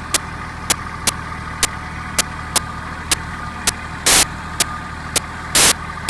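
Big tractor's engine running steadily, with sharp clicks about twice a second. Two louder bursts of noise come about four and five and a half seconds in.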